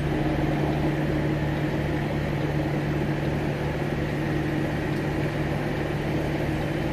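Semi truck's diesel engine running steadily at low idle, a constant low hum.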